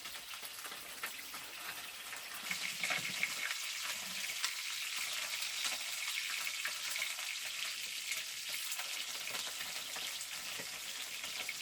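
Steady crackling, sizzling noise made of many fine pops; it grows louder about two and a half seconds in.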